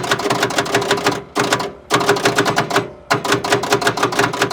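Excavator's starter engaging against an engine that will not turn: a rapid, even clicking chatter of about ten clicks a second with a steady hum under it, breaking off twice and starting again. None of the pulleys turn and the starter is smoking, the sign of a seized or locked-up diesel engine.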